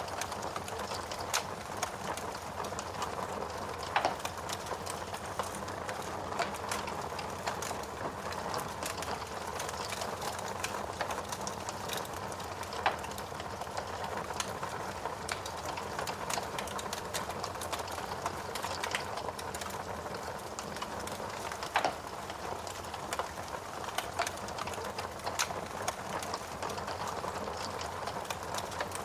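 Steady rain with a wood fire crackling over it: scattered small crackles and three louder, sharper pops.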